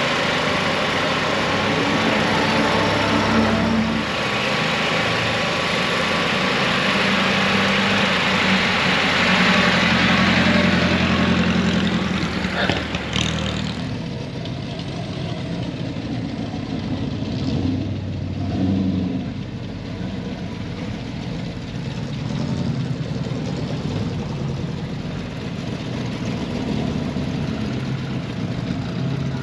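A car engine running, louder and fuller for about the first fourteen seconds, then settling to a quieter, steady run.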